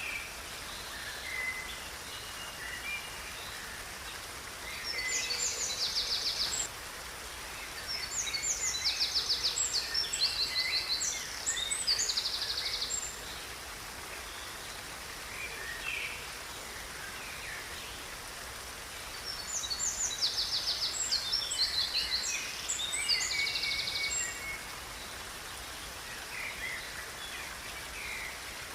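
Songbirds singing in fast, rapid trills, in three long bouts with a few short calls between them, over a steady hiss of outdoor background noise.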